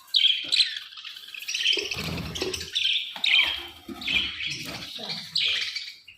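Parrots chirping and squawking, many short sharp high calls coming about every half second.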